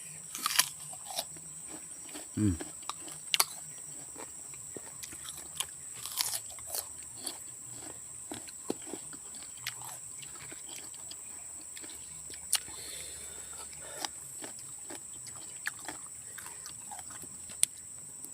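Close-up mouth sounds of a person biting and chewing crunchy water apple (jambu air), with irregular wet crunches and smacks throughout and a brief low vocal sound about two and a half seconds in.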